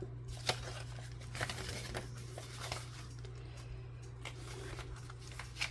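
Paper envelopes being folded and handled, with scattered short rustles and taps over a steady low hum.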